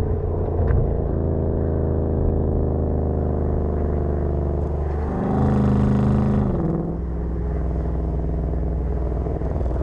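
A 2020 Ford Mustang's 5.0-litre V8 running at freeway speed with a steady exhaust rumble. About five seconds in it revs up louder for a second and a half, then the pitch drops back to a steady cruise.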